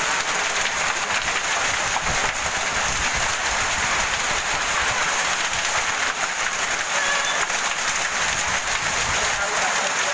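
Heavy storm rain falling hard close by: a steady dense hiss of countless drops hitting surfaces, with low gusts of wind about two seconds in and again near the end.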